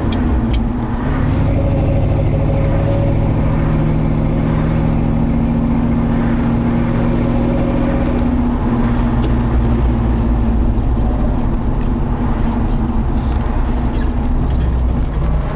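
1968 Ford F250's 360 V8 engine running steadily while the truck is driven, with road noise. Its note rises slightly in pitch over the first half and then holds.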